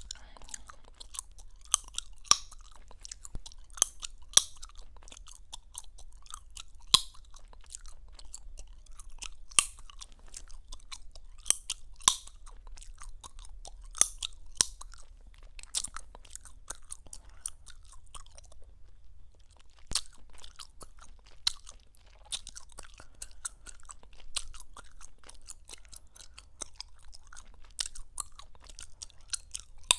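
Gum chewing close to the microphone: wet, irregular smacking with sharp gum pops, several sharp pops a second at times, pausing briefly past the middle.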